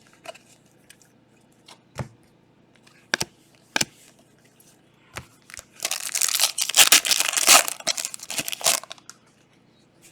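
A few light clicks and taps, then about three seconds of loud crinkling and tearing starting about six seconds in: a Panini Prizm soccer card pack wrapper being torn open.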